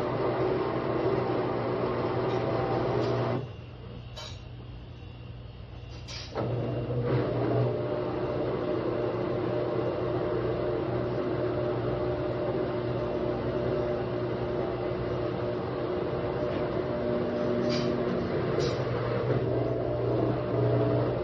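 Midea washer-dryer running its spin cycle: a steady machine hum with a drone and noise that the owner takes to be an abnormal sound during spinning. It drops in level about three seconds in and comes back about three seconds later, with a few faint clicks.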